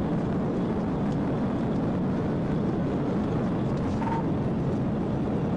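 Steady road and engine noise of a police patrol car driving at high speed during a pursuit, with a short faint beep about four seconds in.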